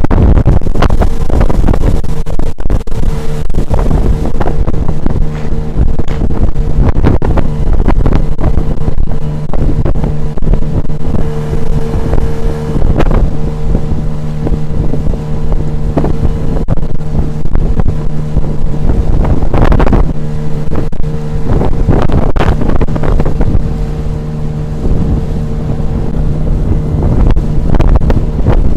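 Tohatsu 9.8 outboard motor on an inflatable boat running steadily at speed, a constant engine drone under heavy wind buffeting on the microphone.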